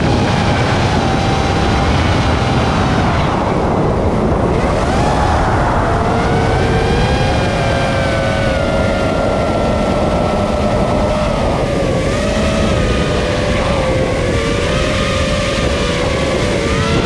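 FPV quadcopter's electric motors whining, the pitch sliding down and back up a few seconds in and wavering with throttle, over a steady rushing noise of air on the onboard microphone.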